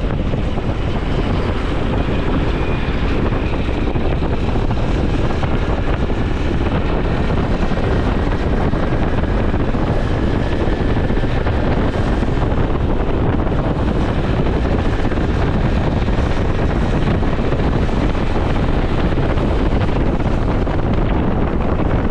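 Honda CT125 Hunter Cub's single-cylinder four-stroke engine running steadily while riding, under heavy wind noise on the camera microphone.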